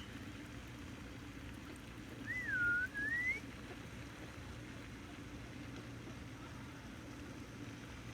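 One whistled call about two seconds in: a single clear note that dips, climbs, breaks briefly and rises again, over a steady low hum.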